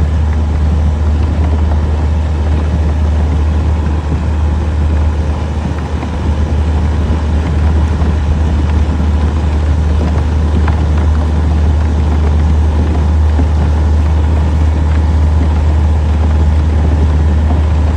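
Old Yamaha outboard motor running steadily at cruising speed, a constant low drone pushing a small aluminium strip boat.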